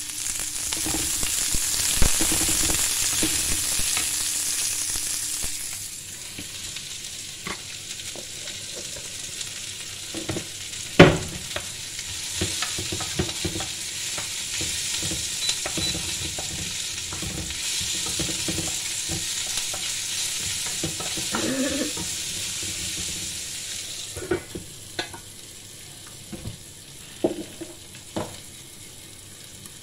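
Shredded cabbage and onion sizzling in a frying pan while being stirred with a wooden spoon, the spoon knocking and scraping against the pan every so often. The sizzle is loudest for the first few seconds, then softer, with one sharp knock near the middle.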